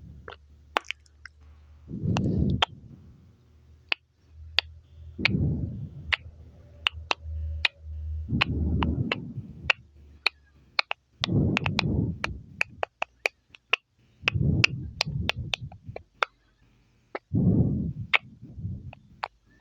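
Close-miked mouth sounds: many wet, sharp mouth clicks and smacks, with a soft, muffled lower sound about every two to three seconds.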